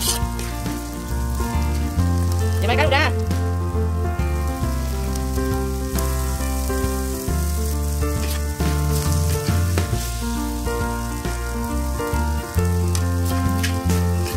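Egg noodles sizzling as they are stir-fried in a hot pan, with a metal spatula scraping and clicking against the pan as it tosses them. Background instrumental music plays throughout.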